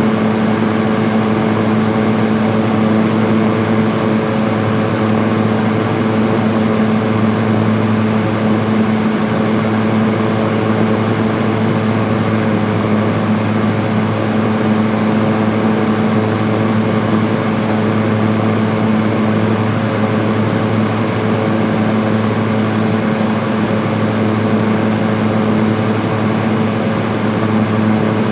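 Electric fan running steadily on its high speed setting: an even rush of moving air with a constant motor hum beneath it.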